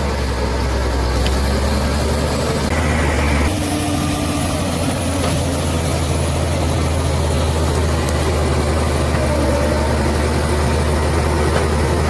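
Bulldozer's diesel engine running steadily with a deep hum, with a brief higher tone about three seconds in, after which the engine note shifts.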